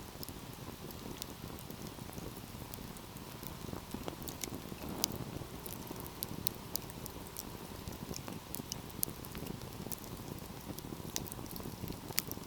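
Wood fire burning in a fireplace, crackling with irregular sharp pops and snaps over a steady low rush of flame.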